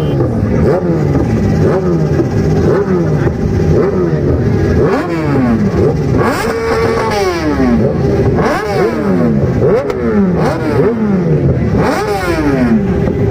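Several superbike engines revving in repeated, overlapping throttle blips, each pitch rising quickly and then falling away, over a steady din of running engines.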